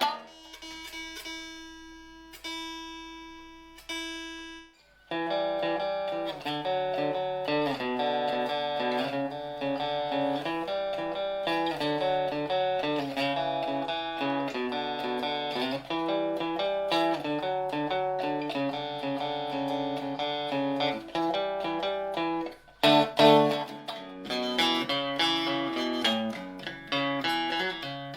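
Electric guitar played: a single note is left ringing and slowly fading for about five seconds. Steady chord-and-riff playing follows, with a brief break about 23 seconds in.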